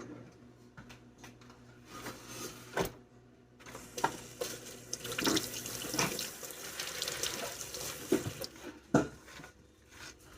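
Kitchen tap running for about five seconds, starting a few seconds in. Scattered knocks and clinks come before, during and after it.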